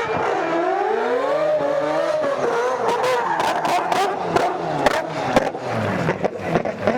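Drift car engine revving hard, its pitch rising and falling as the car slides. A run of sharp pops and crackles comes in the second half.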